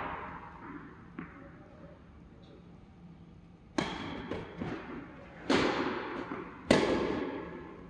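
Tennis ball struck by rackets in a doubles rally: a faint hit about a second in, then three sharp hits over the second half, each followed by a long echoing fade.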